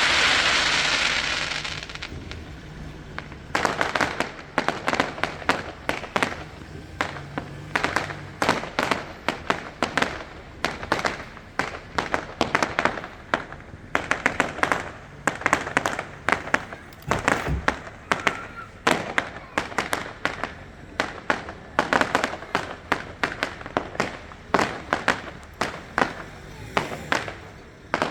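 Fireworks display: a rapid, dense run of sharp cracks and bangs, many a second, starting about three and a half seconds in and going on without a break. Before it, a loud rushing noise fades away over the first two seconds.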